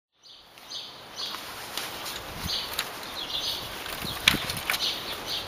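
Birds chirping in short calls, repeated every second or so, with a few sharp knocks or clicks; the loudest knock comes about four seconds in.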